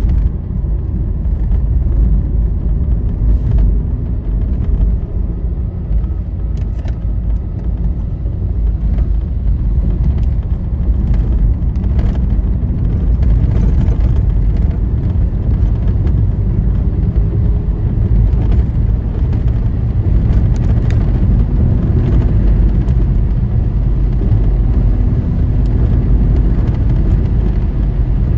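Steady low rumble of a vehicle travelling along a highway, engine and tyre noise heard from inside the vehicle, with a faint hum and a few light rattles.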